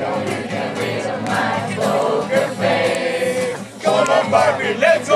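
A group of people singing together, choir-like, with a short dip about three and a half seconds in before the voices come back louder.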